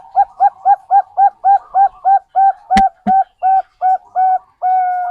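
Zebra dove (perkutut bangkok) cooing: a fast, even run of short coo notes, about four a second, ending in one longer held note. A sharp click sounds about three seconds in.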